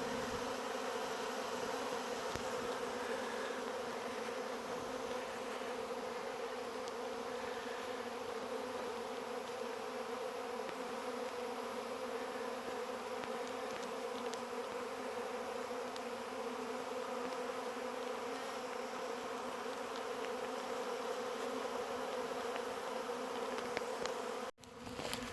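Honey bee swarm buzzing: thousands of bees pouring out of a hive and flying around, making a steady, dense hum. The sound cuts out for a moment near the end.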